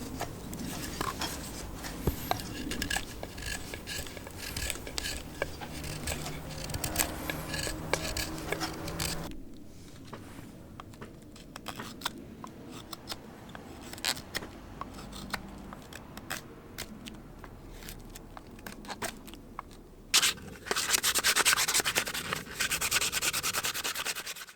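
Rubbing and scraping strokes of hand-finishing on a hornbeam wood turner. The sound changes about nine seconds in and grows louder near the end.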